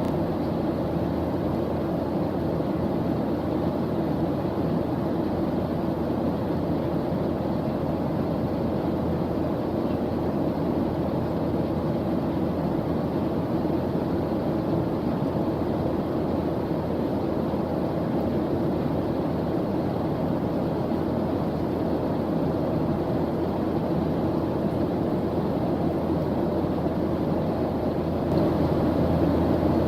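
A steady ambient white-noise track: an even, deep rushing hiss with no breaks or rhythm, swelling slightly near the end.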